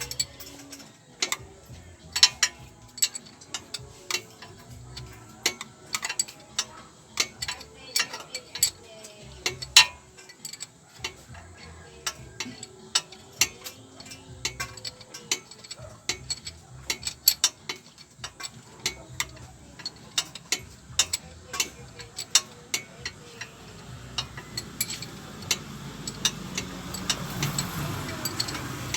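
Hand tools working on the 4G15 engine: irregular sharp metal clicks and clinks of a ratchet wrench and sockets on the bolts. A rushing noise builds up near the end.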